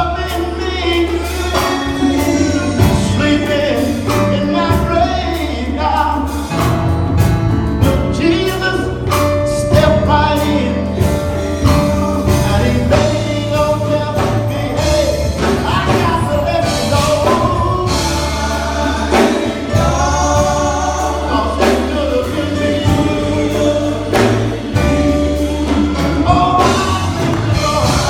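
Gospel choir singing with a band: bass, drums and keyboards behind the voices.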